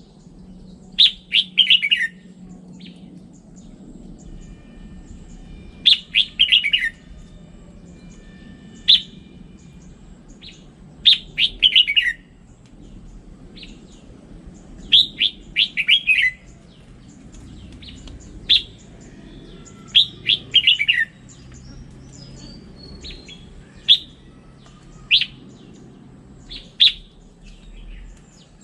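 Red-whiskered bulbul singing: short phrases of three or four quick, falling notes repeated about every four to five seconds, with single sharp notes in between.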